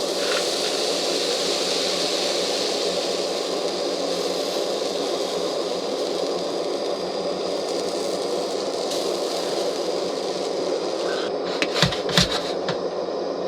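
Pancake batter sizzling in a hot oiled pan: a steady hiss, with a few sharp clicks and knocks near the end.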